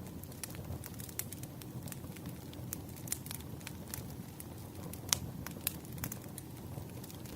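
Burning firewood crackling: a steady low rumble of flames with irregular sharp pops and snaps, the loudest about five seconds in.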